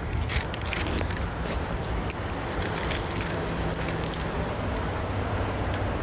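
Steady low rumble of outdoor urban background noise, with a few sharp clicks in the first second or so.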